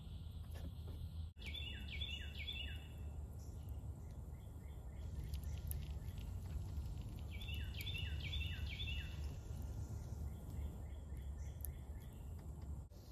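A songbird calling in the woods: two quick phrases of about four descending whistled notes, one about two seconds in and another about six seconds later, over a steady low rumble.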